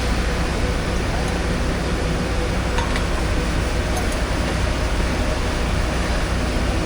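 Steady outdoor background noise with a heavy low rumble, unbroken throughout, with a few faint short sounds over it.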